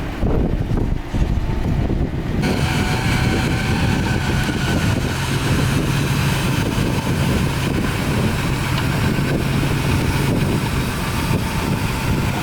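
Diesel engine of heavy earthmoving machinery running steadily, with wind buffeting the microphone. About two and a half seconds in the sound changes abruptly, and a steady engine hum with a higher whine comes in.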